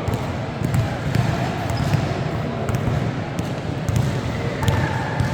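Basketball being dribbled on a gym floor, a run of repeated low thumps over steady crowd chatter, with a brief squeak a little over four and a half seconds in.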